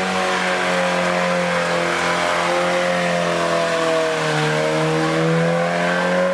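Car engine held at high revs, steady and loud, its pitch wavering slowly and dipping slightly a few seconds in.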